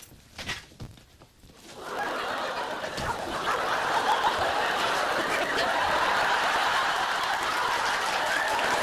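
Group laughter that builds about two seconds in and carries on steadily, the mixed laughter of many people, typical of a studio audience and cast laughing at a fluffed line.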